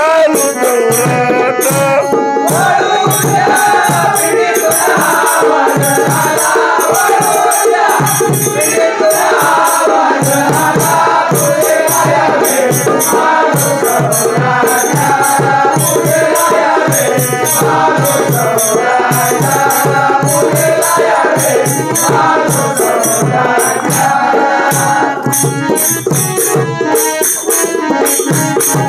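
Marathi bhajan music: harmonium playing the melody over a steady dholki drum rhythm, with metallic jingling keeping time.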